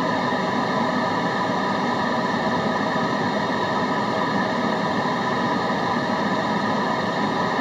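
Steady white noise: an even, unchanging hiss across the whole range, with a few faint steady tones running through it.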